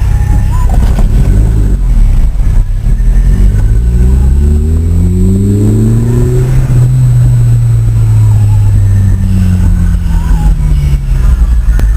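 A car engine revving: its pitch climbs steadily over a few seconds, holds high, then slowly eases back down, over heavy low rumble.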